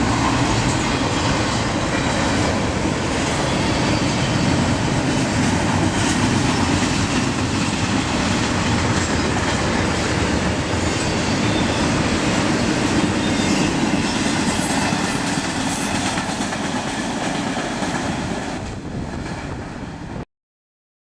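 Train running on the rails with a steady rumble and wheels clattering over the track, ending in an abrupt cut to silence about 20 seconds in.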